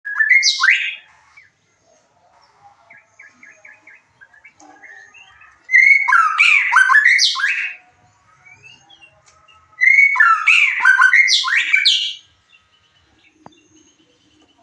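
White-rumped shama (murai batu) singing: three loud, rich, whistled phrases of varied notes, one at the start and two of about two seconds each further on, with softer chirps and chatter in the gaps.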